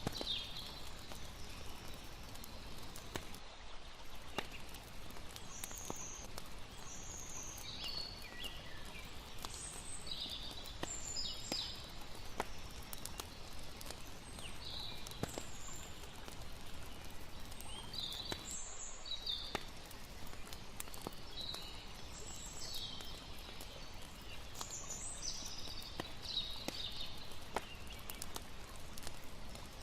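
Layered nature ambience: a campfire crackling with scattered sharp pops, and short bird chirps calling on and off over a steady background rush.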